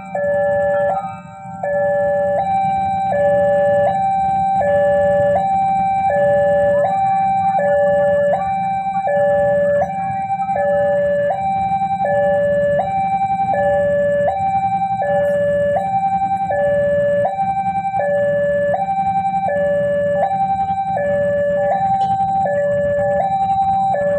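Electronic warning alarm of a railway level crossing sounding its two-tone signal, alternating evenly between a low and a high note about every 0.7 s, the sign that the barriers are down for an approaching train. A steady low rumble runs underneath.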